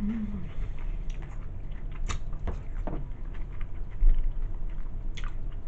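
Close chewing and wet mouth smacks of someone eating a sandwich, with scattered short clicks and a low thump about four seconds in.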